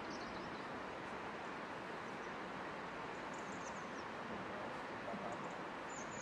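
Faint outdoor ambience: a steady, even hiss with small birds chirping faintly now and then in short, high calls.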